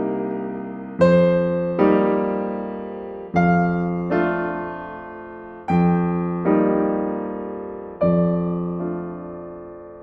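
Slow, gentle solo piano music: soft chords struck about every second or two, each left to ring and fade.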